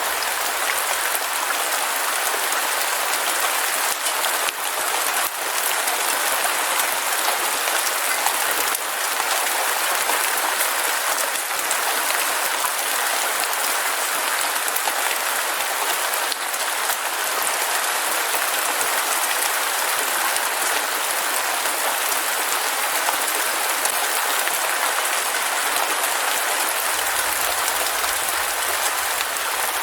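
Heavy rain falling steadily: a dense, even hiss of many drops with no let-up.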